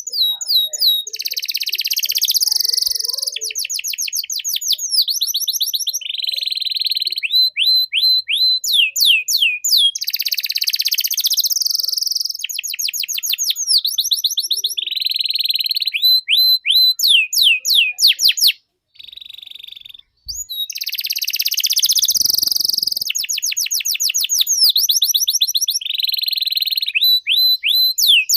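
Domestic canary singing a long, vigorous song of rapid repeated trills and buzzy rolls, high-pitched, breaking off briefly about two-thirds of the way through before resuming.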